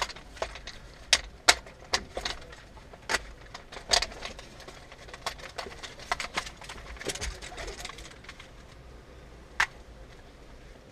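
Gear being handled: a string of sharp, irregular clicks and knocks, thinning out after about eight seconds, with one more near the end.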